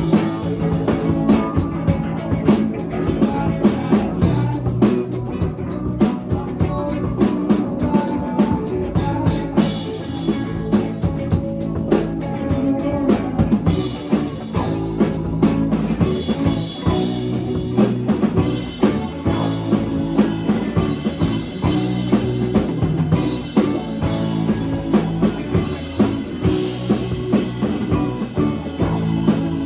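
Live band playing with no vocals: a drum kit keeps a steady beat under bass and guitar. The band comes in together all at once.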